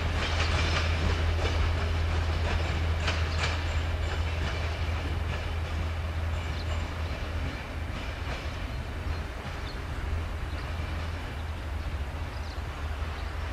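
Passenger coaches of a departing train clicking over rail joints and switches, the clicks thinning and the sound slowly fading as the train draws away, over a steady low rumble.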